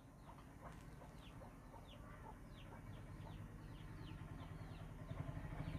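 Faint birds chirping in the background: short, quick falling chirps, several a second, over a low hum that grows louder in the second half.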